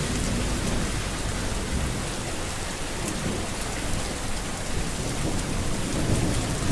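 Steady heavy rain with a low rumble underneath, cutting off abruptly at the end.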